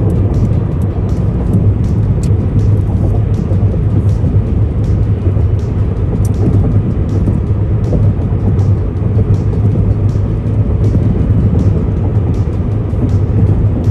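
Steady low road and engine rumble inside a car cruising on the freeway, with a faint high ticking about twice a second.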